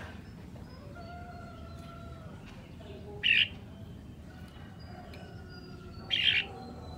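Red-whiskered bulbul singing: two loud short phrases about three seconds apart, with fainter whistled bird notes between them.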